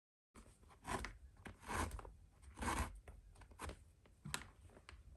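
Leather glove lace being pulled through the lacing holes of a baseball glove: four rasping swishes about a second apart, then a few light clicks near the end.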